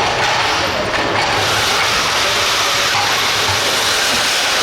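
Radio-controlled pulling vehicle's motors and drivetrain running steadily under load during a pull, a loud, even whirring noise that builds about a second in.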